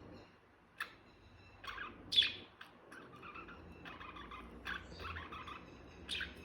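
Pet budgerigars chirping and chattering: scattered short, sharp chirps, the loudest a little over two seconds in, with softer warbling chatter between them.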